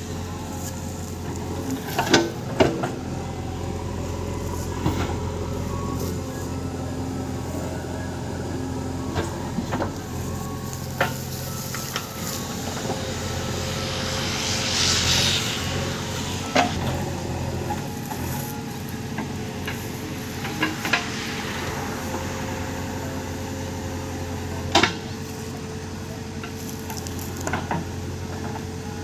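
JCB backhoe loader's diesel engine running steadily under work, with scattered sharp knocks and clanks from the digging gear and a brief hiss about halfway through.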